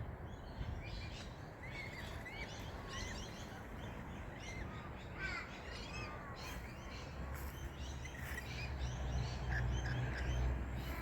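Wild birds calling, many short chirps and calls overlapping, with a crow-like caw among them, over a low steady rumble that grows louder toward the end.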